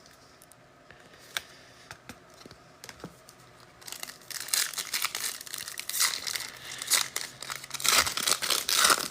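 A foil trading-card pack wrapper being torn open and crinkled. There are a few light clicks at first, then steady crackling from about four seconds in.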